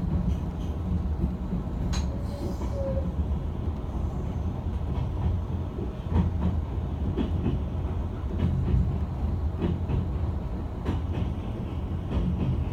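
Inside a car of the Izukyu Kurofune electric train: a steady low rumble with scattered clicks and knocks from the car.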